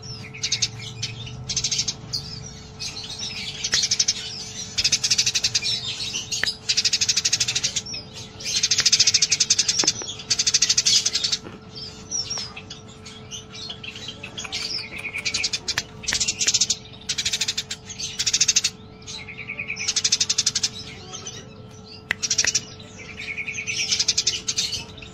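Eurasian tree sparrows chattering in rapid bursts of shrill chirps, one after another with short gaps. It is the excited chatter of sparrows squabbling. A faint steady hum runs underneath.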